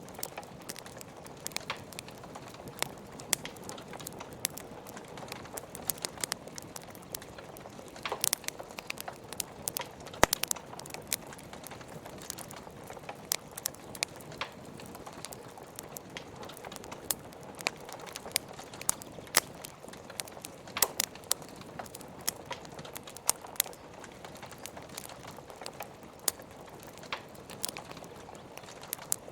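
Wood fire crackling in a fireplace, with frequent irregular sharp pops and snaps, over a steady hiss of rain.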